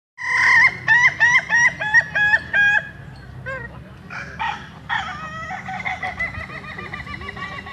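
Rooster crowing: starts suddenly with a quick series of about eight short, clipped notes, then a few scattered calls and a long drawn-out note held through the last few seconds.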